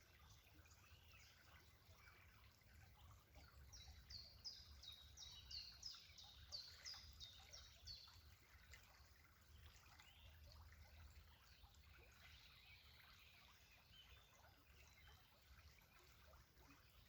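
A songbird sings a run of about a dozen short, high, down-slurred notes, roughly three a second, over a faint trickle of running water.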